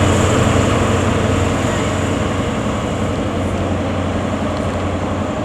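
Passing train, a loud steady low hum with rumbling noise over it that slowly fades.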